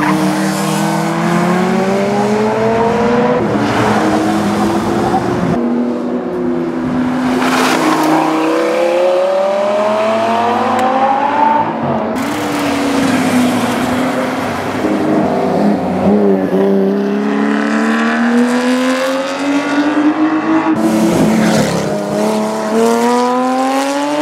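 Supercar and race-car engines accelerating hard, each climbing steeply in pitch then dropping at an upshift before climbing again, repeated many times as the cars drive on the circuit.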